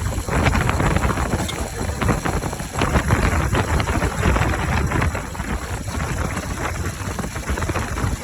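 Bajaj Pulsar RS200's single-cylinder engine running with its air filter removed, over wind noise on the microphone.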